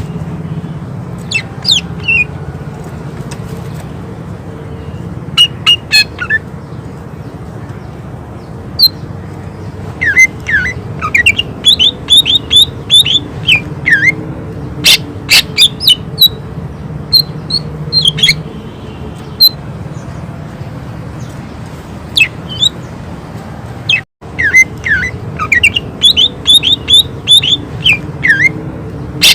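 A cucak ijo (green leafbird) singing in rapid runs of sharp, loud call notes and down-slurred whistles, with short pauses between runs, over a steady low hum. The song breaks off for an instant about two-thirds of the way through.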